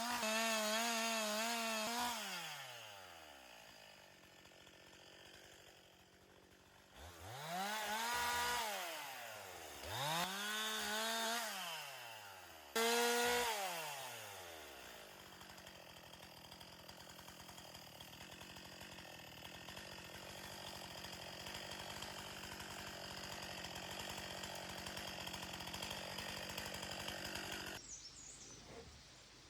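Two-stroke chainsaw running at full speed, then dropping about two seconds in. It is revved up and let fall back three times, then runs at a steady idle until it cuts off near the end.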